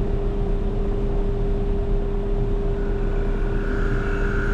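Trane two-stage outdoor air-conditioning unit running with a steady hum and low rumble, carrying one constant tone; a faint higher whine joins about three seconds in.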